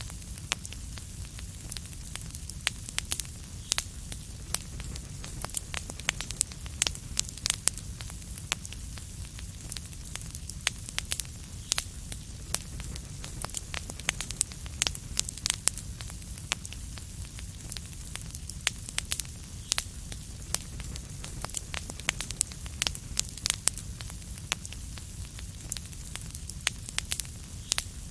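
Wood fire crackling steadily, with many sharp irregular pops and snaps over a low rumble and soft hiss.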